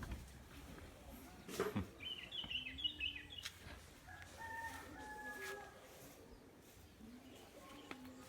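Chickens clucking and calling, with a few sharp knocks.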